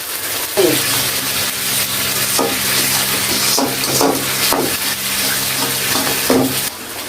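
Spice paste frying and sizzling in oil in a karai while a spatula stirs it, scraping repeatedly against the pan. A steady low hum runs under it from about half a second in until just before the end.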